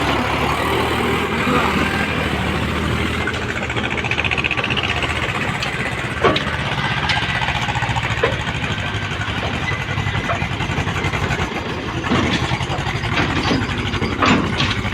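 Diesel engines of a backhoe loader and tractors running steadily during mud loading, with a few sharp knocks about six, eight and fourteen seconds in.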